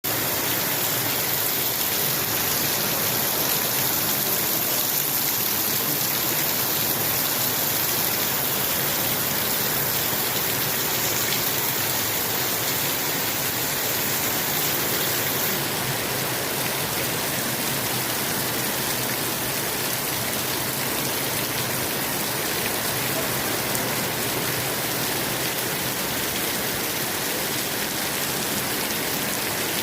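Storm rain pouring down in a steady, dense hiss, easing very slightly about halfway through.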